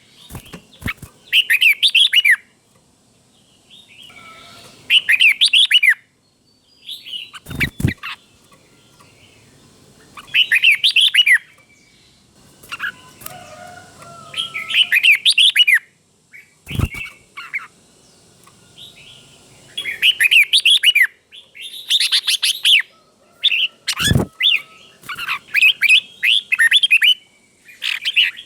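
Red-whiskered bulbul singing short, bright warbled phrases again and again every few seconds: the doubled song that keepers play to caged bulbuls to copy. A few sharp knocks come in between the phrases.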